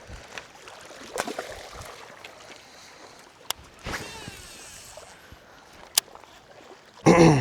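Faint wind and water noise, broken by a few sharp clicks and a brief gliding squeak about four seconds in, with a short burst of voice near the end.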